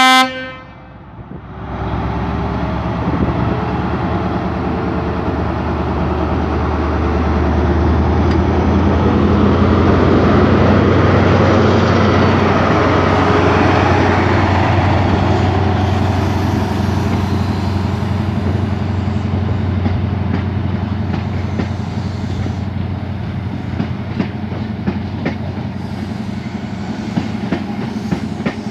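A train passing through the station: the end of a horn blast right at the start, then a steady engine drone and rail rumble that builds to a peak about ten seconds in and slowly eases, with wheel clicks over the rail joints in the later part.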